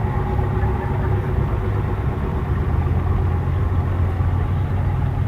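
A car engine running steadily at low revs, a deep even rumble with no revving or change in pitch.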